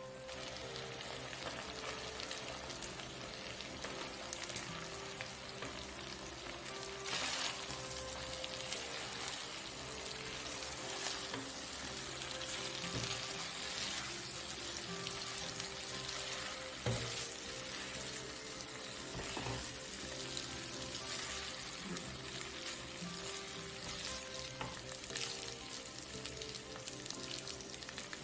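Shrimp in garlic sauce sizzling in a nonstick frying pan, with a steady crackle. It is stirred and then tossed with spaghetti using tongs, with a few louder knocks of the utensils against the pan.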